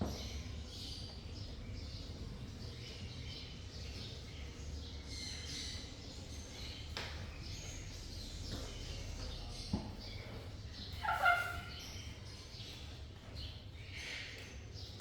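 Parrots chirping softly on and off, with one louder squawk about eleven seconds in and a click just before it; a steady low hum underneath.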